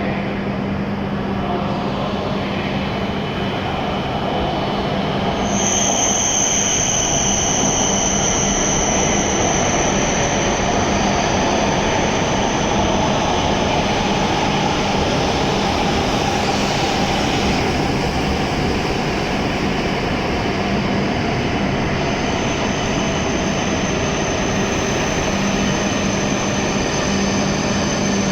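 E7 series Shinkansen train running into its terminal platform and slowing: a steady rush of rolling and motor noise, joined about five seconds in by a steady high-pitched whine that lasts to the end.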